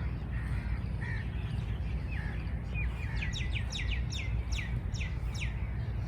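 A songbird singing: a few soft calls, then about halfway through a quick run of about nine sharp downward-sliding notes, over a steady low rumble.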